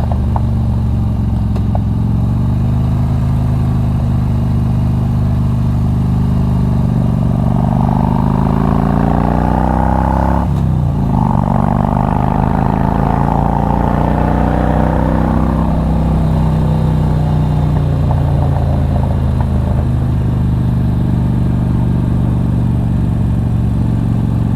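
A Harley-Davidson Street Glide's 88 cubic inch fuel-injected V-twin running under load through a loud exhaust, heard from the rider's helmet mic. Its pitch climbs for a few seconds, dips sharply for a moment about ten seconds in, then eases down.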